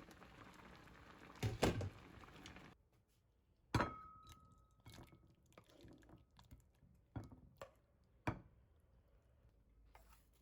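A few light knocks and taps of small objects being handled and set down, the loudest about four seconds in with a brief ringing tone. Under the first taps there is a steady hiss that cuts off suddenly.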